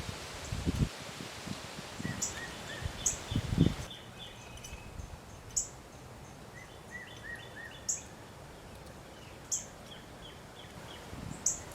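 Birds calling at a feeder: sharp high chips every second or two, with runs of quick short notes. Low buffeting from wind on the microphone comes in the first few seconds and again near the end.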